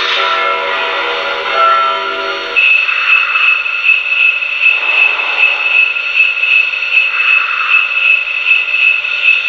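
Lionel Legacy 460 steam locomotive's onboard sound system: a chime steam whistle blowing in short blasts, then, about two and a half seconds in, the locomotive bell starts ringing steadily at about three strokes a second.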